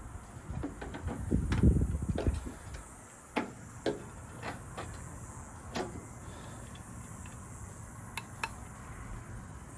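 Small metal lock parts being handled: rustling and knocking for the first couple of seconds, then a series of light, sharp metallic clicks spaced about a second apart.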